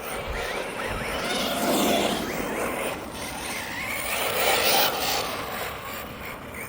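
Electric RC cars running on a track, their motors whining with rising and falling pitch; the sound swells as they pass, about two seconds in and again near five seconds.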